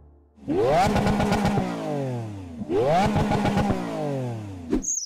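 Lamborghini Aventador S's 6.5-litre V12 revved twice through its exhaust. Each rev climbs sharply and falls back over about two seconds.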